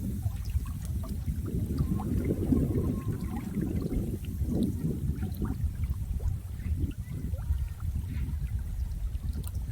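Water flowing and trickling steadily, a low, rushing wash with small scattered splashes and drips over it.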